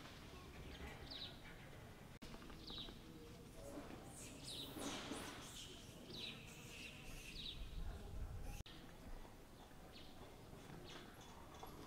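Faint outdoor ambience of small birds chirping in short, high calls, a few at a time with a busier flurry in the middle, over a low steady rumble.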